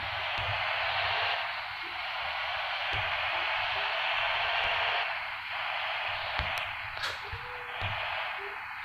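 Steady hiss like radio static, with a few faint clicks in the second half.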